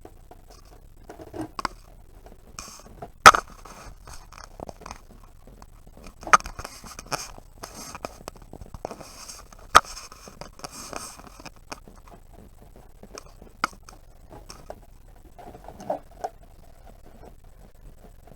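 Hands and a tool working on a portable fridge's plastic casing: irregular clicks and knocks with scraping between them, the sharpest knock about three seconds in.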